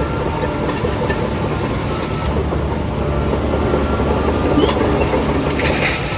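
Shantui DH17C3 crawler bulldozer at work: its diesel engine runs steadily under a continuous clatter from the steel tracks. A brief hiss comes in near the end.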